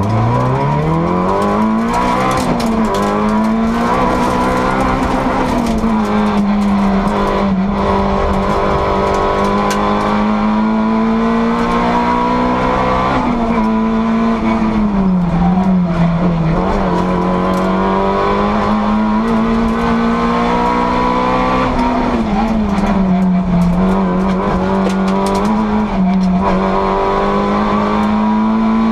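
Rally car engine heard from inside the cabin, revving up hard from low revs at the start and then held at high revs at full throttle along the stage. The pitch dips and climbs back a couple of times.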